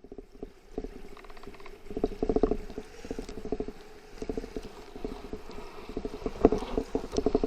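Creek water heard from under the surface through a camera's underwater housing: a dull, low crackling and bubbling made of rapid, irregular pops.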